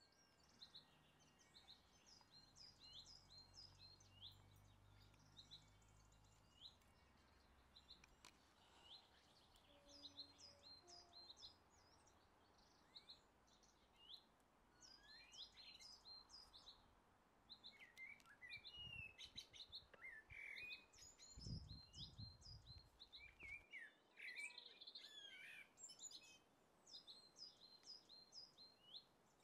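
Faint small birds chirping, with many short high notes repeating throughout. A low rumble comes in now and then, strongest about twenty seconds in.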